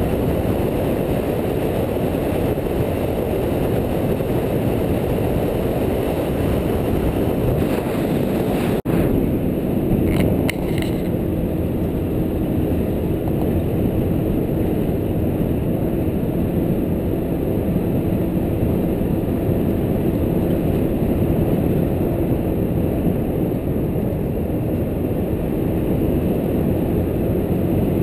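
A vehicle running with a steady low rumble, with a brief break about nine seconds in and a few light clicks just after.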